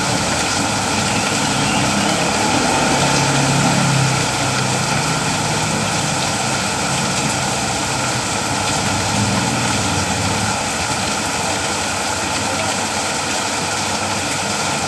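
Steady afternoon rain falling, an even hiss. A low engine hum under it for the first two-thirds fades out about ten seconds in.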